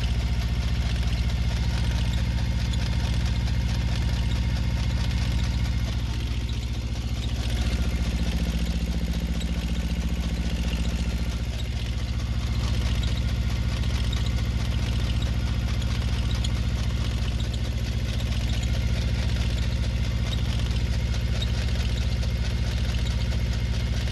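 Yanmar 2GM two-cylinder marine diesel running steadily above idle, its tone shifting briefly twice as the throttle changes.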